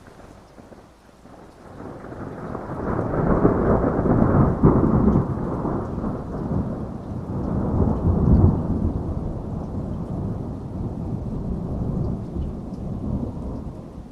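A long roll of thunder over steady heavy rain. It builds about two seconds in, swells twice, and dies away near the end.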